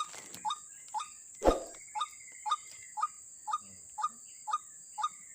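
White-breasted waterhen calling, a short note repeated evenly about twice a second, with one louder knock about a second and a half in and a steady high insect drone behind.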